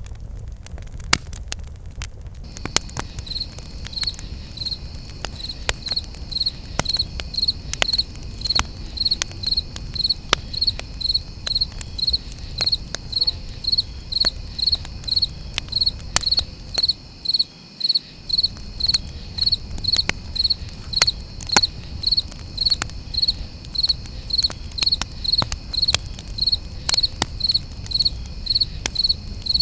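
A cricket chirping steadily, about two high chirps a second, starting a couple of seconds in, over a campfire crackling with scattered sharp pops and a low rumble.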